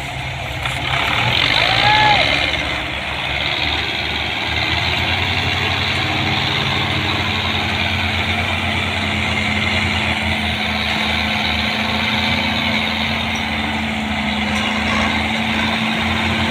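Belarus 510 tractor's diesel engine running steadily under load. A short rising-and-falling tone sounds about two seconds in.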